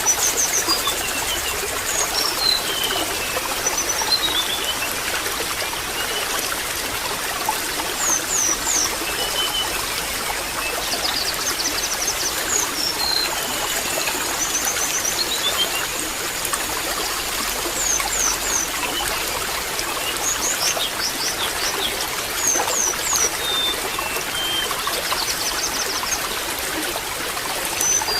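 Water trickling and babbling steadily, with small birds chirping: short high whistles, some falling and some rising in pitch, scattered throughout.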